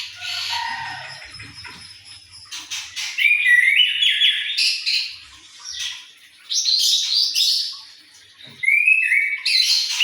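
An anis, a ground thrush kept as a songbird, singing loud phrases of quick whistled and chattering notes, several bursts with short pauses between.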